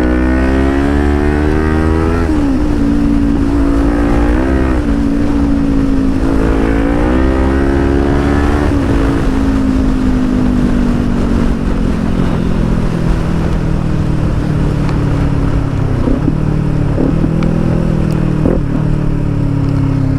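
Kawasaki Ninja 400's 399 cc parallel-twin through an Akrapovic exhaust, accelerating hard: the engine note rises and drops back at each upshift, about four times. It then settles into a steady, slowly falling drone, with a few short sharp blips near the end.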